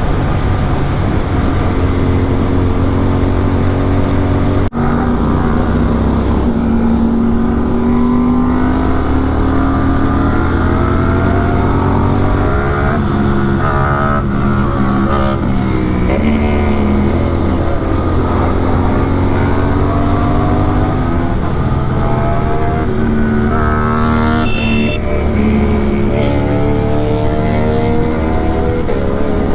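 Superbike engine with an aftermarket SC Project exhaust under way, rising in pitch as it accelerates and dropping back as it shifts up, several times over. There is a steady low rush beneath it, and the sound cuts out for a moment about five seconds in.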